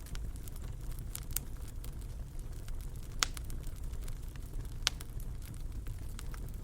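Wood fire in a fireplace crackling, with scattered sharp pops over a low steady rumble of the flames; two pops in the middle are louder than the rest.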